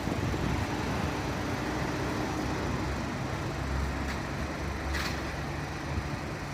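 Fire truck engine running with a steady low rumble, and two sharp clicks about four and five seconds in.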